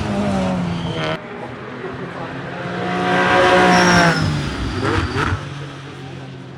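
Racing cars at full speed past the trackside, their engines heavily muffled for noise regulations. One car's note stops abruptly about a second in. Another builds to a loud pass-by about three to four seconds in, its pitch dropping as it goes by, and a further engine note rises briefly near the five-second mark.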